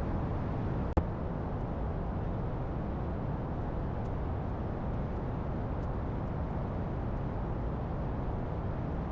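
Steady engine and wind noise of a light aircraft in flight, heard inside the cockpit, with a single sharp click about a second in.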